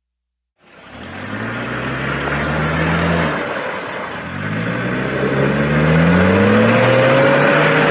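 Motor vehicle engine accelerating, starting after a moment of silence; its pitch rises, drops at a gear change a little over three seconds in, then rises again.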